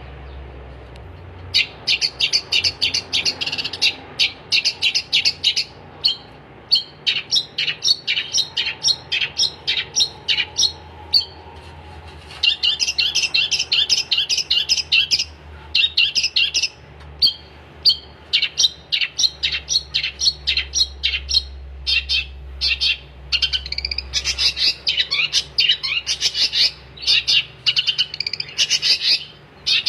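Long-tailed shrike singing in rapid chattering runs of short, high, sharp notes, broken by brief pauses; the song starts about a second and a half in.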